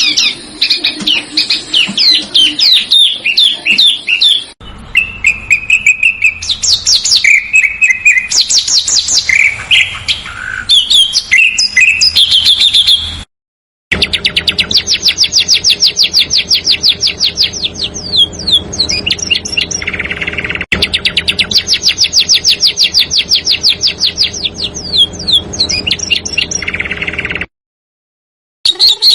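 Small songbirds singing: dense, high chirps and fast rattling trills, in several spliced clips that cut off abruptly, with two short silent gaps, about 13 seconds in and near the end.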